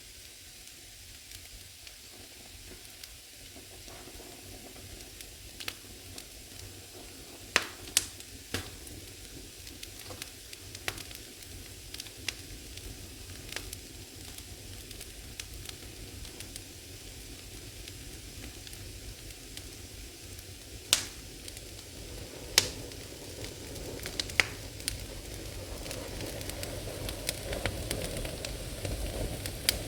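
Firewood burning in an old fireplace: a steady hiss with sharp crackles and pops now and then, a few standing out loudly. A low rushing sound of the fire grows louder over the last third.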